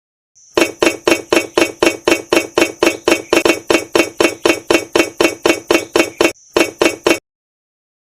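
Rapid, evenly spaced striking, about four strikes a second, over a thin steady high-pitched tone; it pauses briefly near the end, gives two more strikes, then cuts off suddenly.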